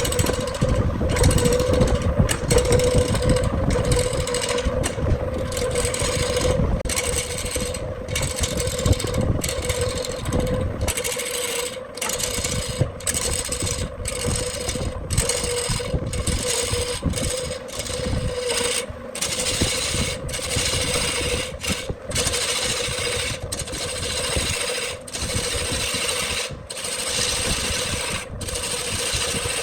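Wood lathe running with a steady motor hum while a tool scrapes against the spinning wood-and-epoxy blank in short repeated passes, the scraping breaking off briefly about once a second.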